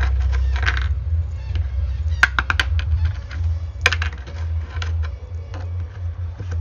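Screws being taken out with a hand tool, sharp metallic clicks and taps: a quick cluster about two seconds in, then single clicks about four and five seconds in. A steady low rumble runs underneath.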